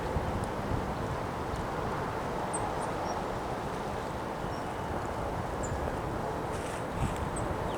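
Strong wind blowing in a storm, a steady rushing with heavy low buffeting on the microphone. A few brief, faint high chirps sound over it.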